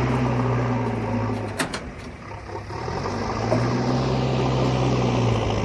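Excavator's diesel engine running steadily. The engine note drops away for about a second and a half, then comes back up. A couple of sharp clicks or clanks come as it drops.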